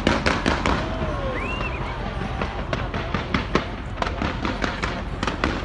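Fireworks exploding over a steady rumble: a rapid, irregular series of sharp bangs, thickest near the start and again from about two and a half to three and a half seconds in.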